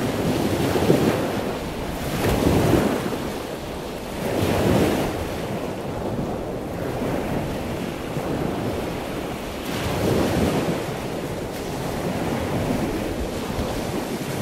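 Ocean surf: a continuous wash of waves, with surges that swell and ebb every few seconds.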